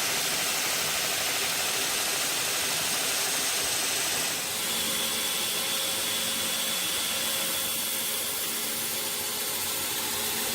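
Electric power tool grinding or sanding a high-carbon steel knife blade, a steady whirring hiss with a thin whine; its tone shifts about four and a half seconds in.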